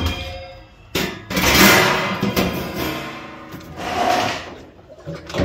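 Work on a washing machine's sheet-metal back cover: a sharp knock about a second in, then irregular scraping and rattling as the cover is worked loose.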